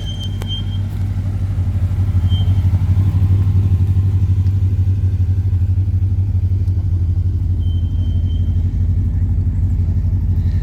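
Ford Escort Mk2 1600 Sport's four-cylinder engine running steadily, growing louder over the first few seconds and then holding level.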